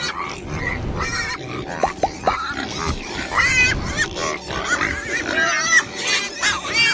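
Pigs grunting and squealing, a run of short calls with several high-pitched squeals about halfway through.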